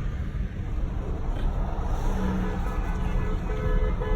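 Low rumble of idling cars in stalled traffic, heard from inside a car. About halfway through, a car horn joins in and sounds in short repeated toots toward the end.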